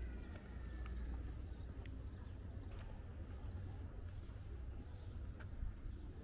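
Birds calling in short, high, arching notes every second or so over a steady low outdoor rumble of town background.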